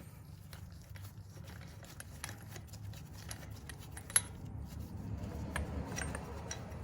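A factory acorn-style lug nut being spun off a Toyota 4Runner wheel stud by hand: faint, scattered metallic clicks and light scraping, with one sharper click about four seconds in, over a low steady hum.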